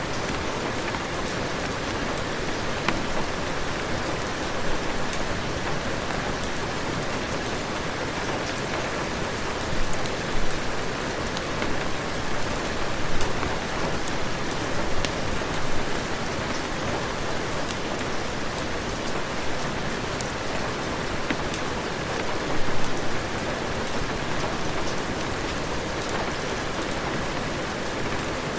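Heavy rain falling steadily, with scattered sharp drip-like clicks and a few brief swells in loudness.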